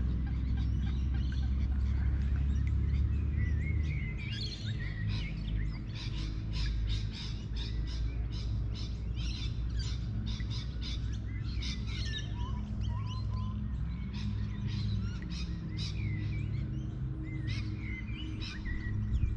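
Small birds chirping and calling in quick, irregular notes, over a low rumble that eases about four seconds in.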